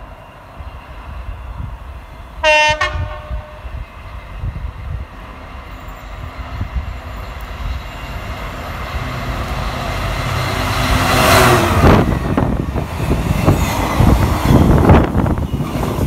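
A Class 66 diesel locomotive sounds its horn once: a single steady note lasting about a second, given as the freight train approaches. Its engine and the container wagons' wheels on the rails then grow louder, and they become loudest in the second half as the train runs through at speed.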